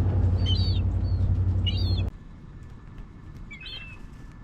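Seagulls giving three short calls, about a second apart, over a low steady rumble that cuts off suddenly about two seconds in.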